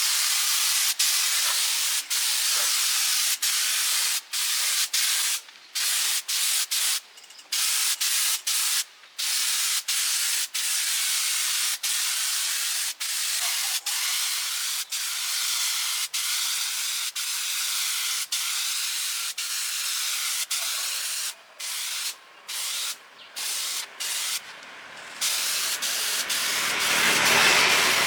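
Compressed-air spray gun hissing in long bursts, broken by short pauses where the trigger is let go, several in quick succession just before the end; the hiss swells louder near the end.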